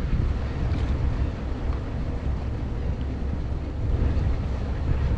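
Wind buffeting the microphone: a steady, heavy low rumble with a rough hiss above it.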